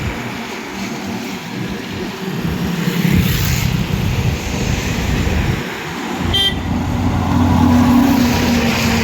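Highway traffic passing close by: vehicle engines running, with a heavier engine drone building from about six seconds in, and a short horn beep at about six and a half seconds.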